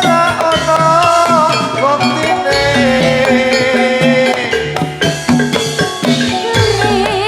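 Loud Javanese gamelan music for a jathilan dance. Metal-keyed mallet instruments and drums keep a steady rhythm under a wavering melody line with vibrato.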